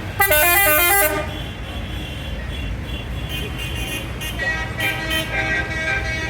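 A vehicle's multi-tone musical horn plays a rapid run of stepped notes for about a second, over a steady low engine rumble. Fainter music with held notes follows.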